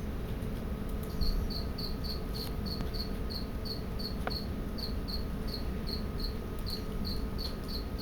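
A cricket chirping steadily: short high chirps repeating about three to four times a second, starting about a second in.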